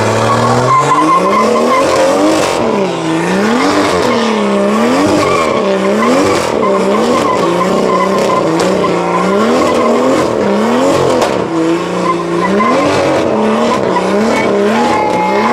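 Car spinning its wheels with tyres squealing, the engine revving down and back up about once a second.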